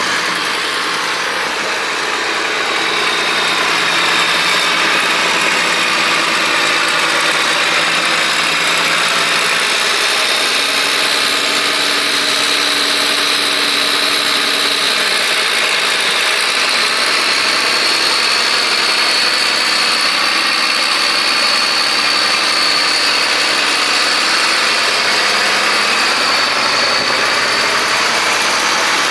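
International 1086 tractor's six-cylinder turbocharged diesel engine running steadily, getting a little louder in the first few seconds, with a steady high whine that rises slightly about halfway through.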